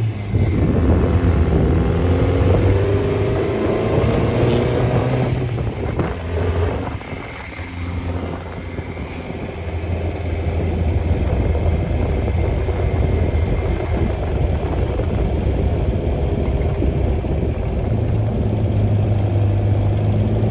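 Supercharged MG TA race car engine under way, heard from the open cockpit with wind and road noise. Its pitch rises over the first few seconds and the level dips briefly about seven seconds in, then it runs steadily at cruising speed.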